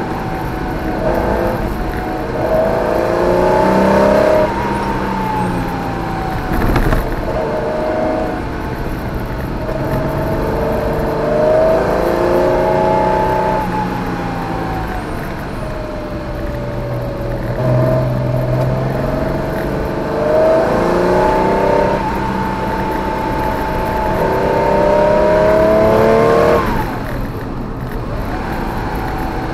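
Porsche 914/6's air-cooled flat-six engine heard from inside the cabin under hard driving: revving up and easing off in turn, the pitch climbing and then dropping back at each gear change, with the throttle closing sharply near the end.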